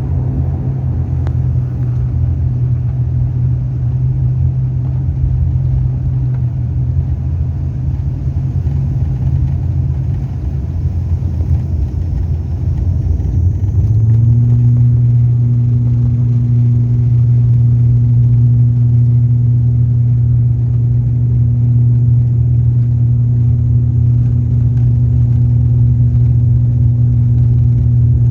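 Airliner engines running with a deep, steady rumble. About 14 s in the sound steps up, louder, with a steady low hum that holds from then on as power comes up for the takeoff.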